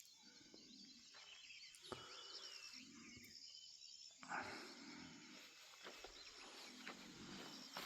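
Faint birds chirping and twittering in the morning, many short calls overlapping throughout. A soft knock about four seconds in.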